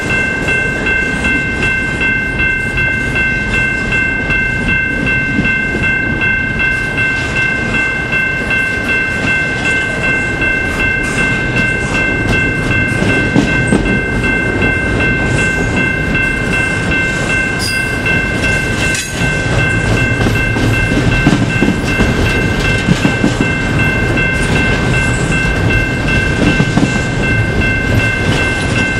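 Double-stack intermodal well cars rolling past at close range: a steady rumble with clicking wheels on the rail joints, under a steady high-pitched ringing tone that runs throughout.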